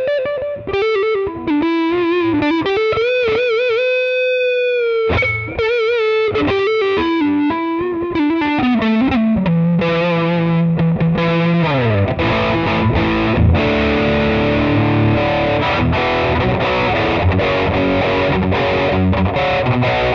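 A Florenze SG-style electric guitar played through distortion and effects. It plays a single-note lead with wide vibrato and bends, then slides down in pitch about twelve seconds in and goes into heavily distorted chords.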